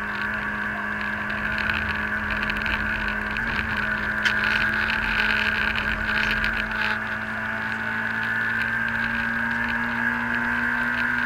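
Citroën AX GTi's four-cylinder engine running hard at high, nearly steady revs, heard from inside the stripped rally car's cabin. A rushing noise swells in the middle, with a single sharp click about four seconds in.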